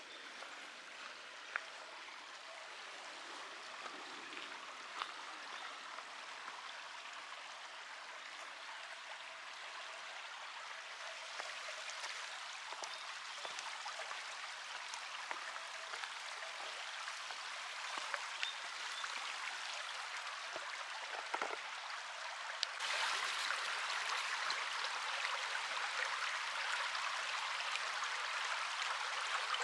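Running water of a creek, a steady rushing that grows slowly louder and jumps up sharply about three quarters of the way through. Scattered light clicks sit over it.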